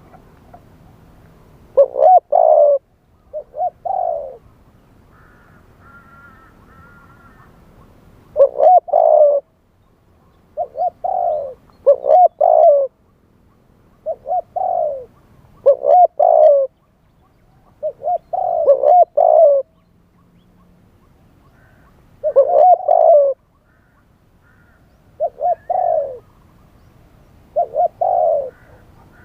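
Spotted dove cooing over and over in short phrases of two or three coos, a new phrase every second or two.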